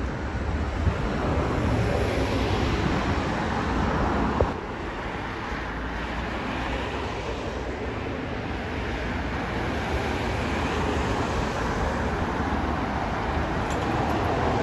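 Aircraft engine noise, a steady rushing that drops suddenly about four and a half seconds in and then slowly builds again.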